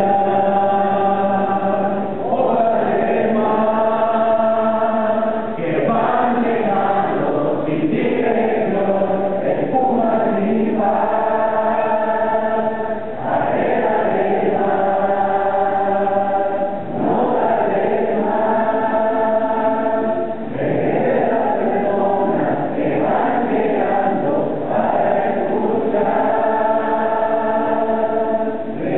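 A choir singing a gospel hymn in harmony, in long held phrases with short breaks between them.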